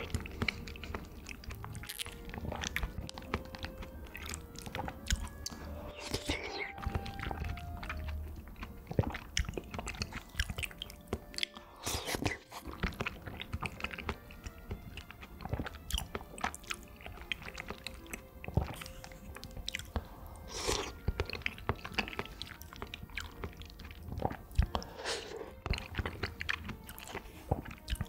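Close-up mouth sounds of someone eating mandarin orange segments: irregular wet chewing and smacking throughout.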